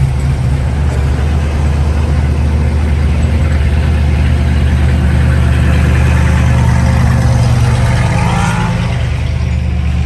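A car engine running at a steady, loud idle, with a deep, even rumble.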